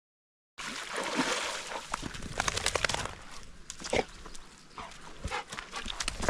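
A Labrador dog making breathy, noisy sounds with many short clicks and a few brief pitched yelps, starting abruptly about half a second in.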